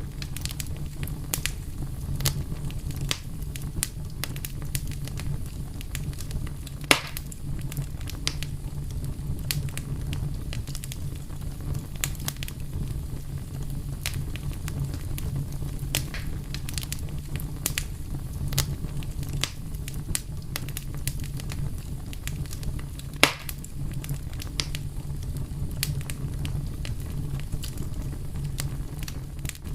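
Wood fire crackling steadily with a low rumble, a constant scatter of small snaps and two louder pops, about a third and three-quarters of the way through.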